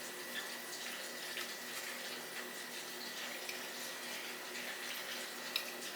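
Soft chewing and wet mouth sounds of a person eating a chili cheese dog, with a few faint clicks over a steady hiss.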